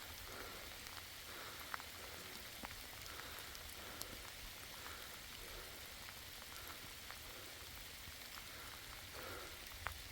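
Steady rain falling, with a few louder drops ticking now and then.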